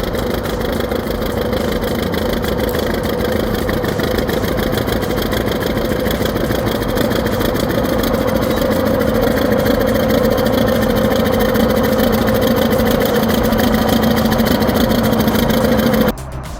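A heavy machine's engine running steadily, cutting off suddenly near the end.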